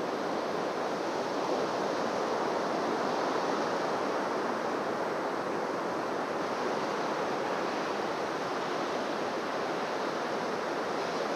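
Surf washing onto a beach in a steady, unbroken wash of noise.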